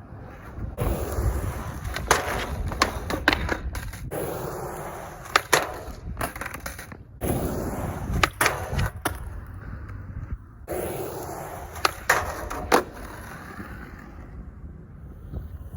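Skateboard riding and grinding a bench on new, unwaxed Venture trucks: rough stretches of wheels rolling and metal trucks scraping along the edge, broken by several sharp clacks of the board popping and landing.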